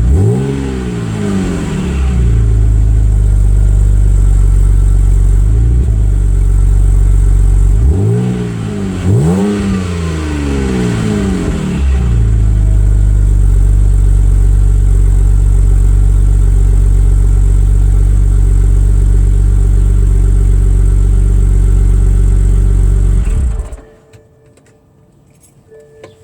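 Exhaust of a 2009 BMW 128i's 3.0-litre straight-six through a Supersprint exhaust with the resonators deleted, after a cold start. The engine is revved and falls back at the start, blipped twice about eight to ten seconds in, idles steadily otherwise, and is switched off near the end.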